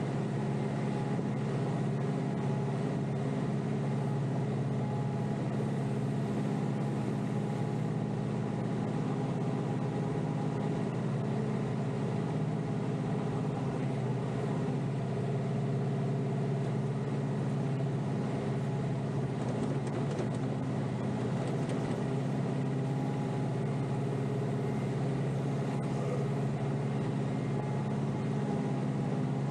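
Kioti DK5320SE tractor's diesel engine running at a steady speed, heard from inside the tractor's cab.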